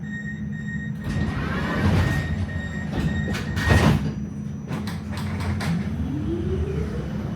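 Melbourne tram's doors sliding shut with a rush of air and several clunks over a steady low hum. Near the end a rising whine begins as the tram's electric traction motors pull it away.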